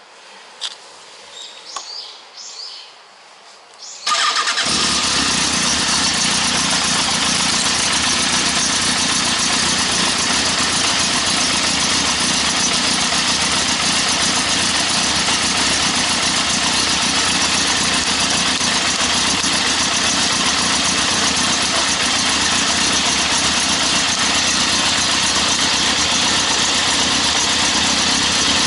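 Yamaha XJR1300's air-cooled inline-four engine, breathing through an aftermarket Wyvan muffler, fires up suddenly about four seconds in and then runs at a steady idle.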